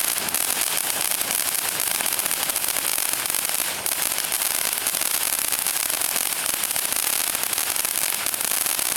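Consumer firework still burning after a weak launch, giving off a steady, dense crackling fizz with no big bangs.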